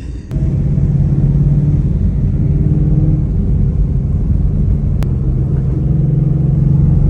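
Car engine running at a steady speed while driving, a loud, even low engine note that comes in just after the start, with a single faint click about five seconds in.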